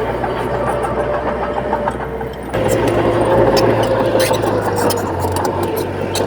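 Diesel engines of heavy earthmoving machinery running steadily, their note drifting slightly up and down, with scattered sharp clicks. The sound changes abruptly about two and a half seconds in.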